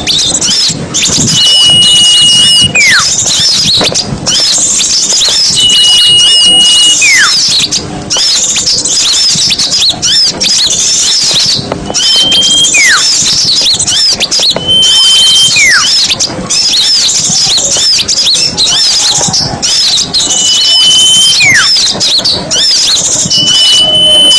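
Bird-luring recording: a loud, dense chatter of many small songbirds chirping together. Every few seconds comes a clear steady whistle, followed by a separate falling whistle.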